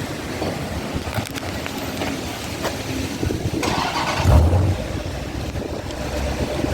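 2019 Jeep Grand Cherokee SRT's 6.4-litre HEMI V8 starting a little past halfway through, with a loud low burst as it fires, then settling into a steady idle. It is heard through newly fitted 5-inch exhaust tips, with the stock mufflers still on.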